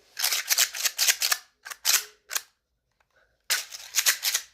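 3D-printed plastic fidget toy clicking and clacking as it is worked by hand, in three quick runs of rapid clicks.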